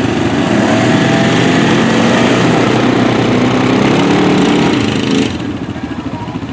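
ATV engine revving hard under load in mud and water, then dropping back sharply about five seconds in.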